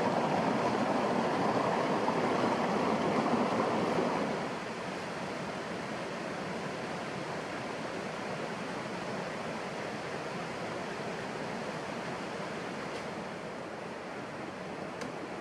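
Steady rushing noise of water, louder for the first four seconds and then settling a little lower.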